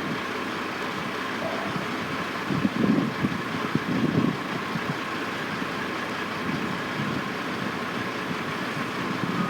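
Steady drone of construction-site machinery and truck engines idling, with two brief louder low surges about three and four seconds in.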